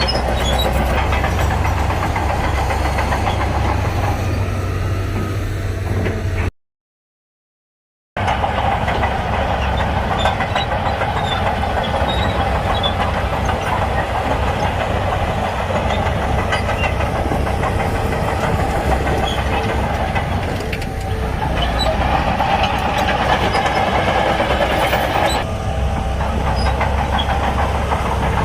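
Heavy diesel earthmoving machinery, a Shantui bulldozer working sand, running steadily under load. The sound cuts out completely for about two seconds a little over six seconds in, then resumes.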